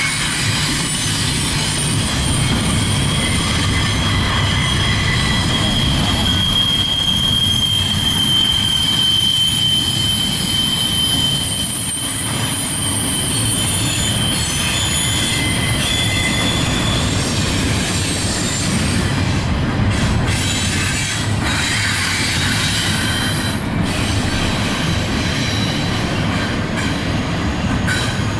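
Double-stack intermodal container cars rolling past close by: a continuous rumble of steel wheels on rail, with a high-pitched wheel squeal that is strongest for several seconds around the middle.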